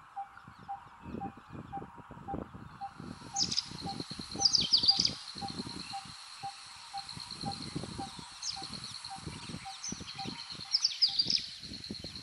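Wild birds calling in quick downward chirps several times, over a steady high insect drone and a soft note repeating about twice a second. Irregular low rumbling noise runs underneath.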